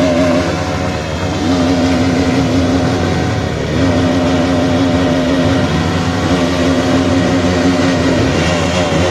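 Several small single-cylinder motorcycles (Bajaj Pulsar NS200, KTM Duke 200, Hero Xpulse 200, Yamaha R15 V3) revving together while standing, engines held at high revs in steady stretches of one to two seconds with short dips between.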